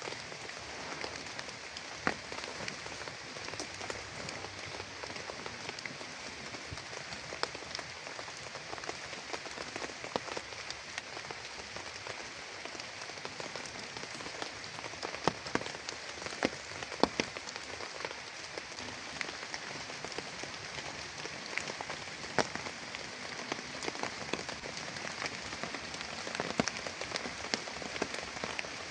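Steady heavy rain falling, with scattered louder drops hitting a surface close by as irregular sharp taps.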